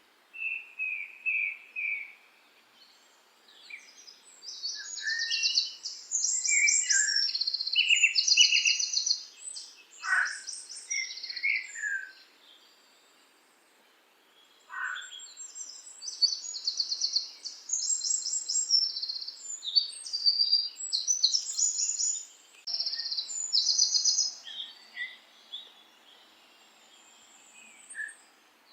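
Birdsong: rapid, high trilled phrases mixed with short whistled notes, coming in two long bouts separated by a brief lull.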